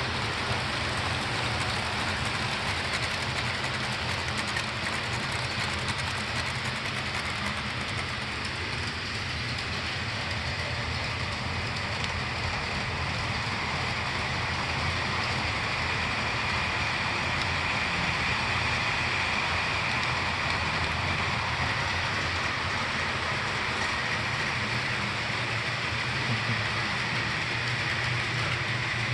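HO-scale model subway trains running on their track: a steady rolling rattle with an electric motor whine that grows a little stronger about halfway through.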